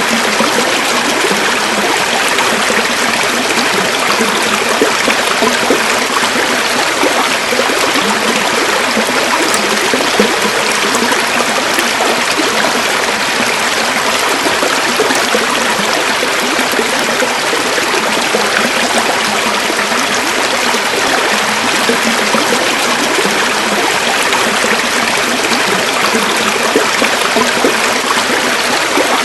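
River water flowing and burbling over stones in a steady, continuous rush.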